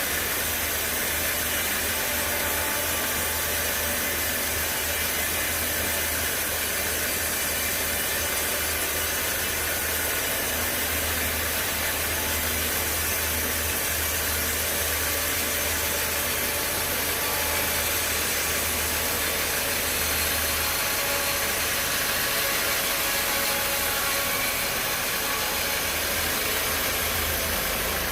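Sawmill saw and its motor running steadily as a steady, even noise, cutting through a large log. A low engine hum underneath weakens about two-thirds of the way through.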